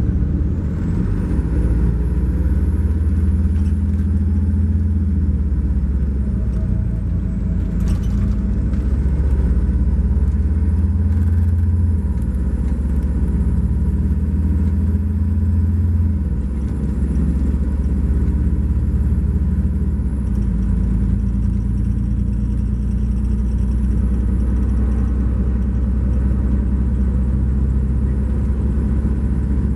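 A 2012 MCI J4500 coach's Cummins ISX12 diesel engine and driveline under way, heard from inside the coach as a steady low drone with road noise, the engine note shifting several times. A single sharp click sounds about eight seconds in.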